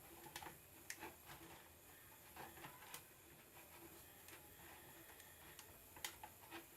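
Near silence broken by faint scattered clicks and light taps as wire terminals are pushed onto the numbered terminals of a mixer grinder's speed switch. The sharpest clicks come about 3 and 6 seconds in.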